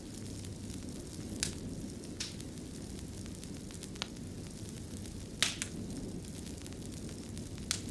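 Wood fire burning in a fireplace, with a steady low rumble and five sharp crackling pops spread unevenly through it.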